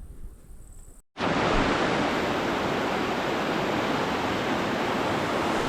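Rushing mountain stream of snowmelt water: a loud, steady, even rush of flowing water that cuts in suddenly about a second in, after a moment of faint outdoor quiet.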